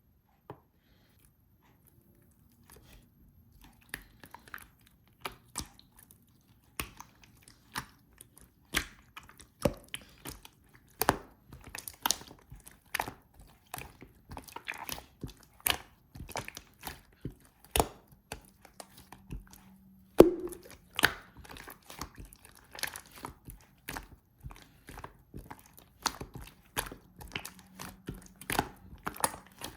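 Slime being squeezed, stretched and poked by hand, making a run of irregular sticky clicks and pops that start a couple of seconds in, with one louder pop around two-thirds of the way through.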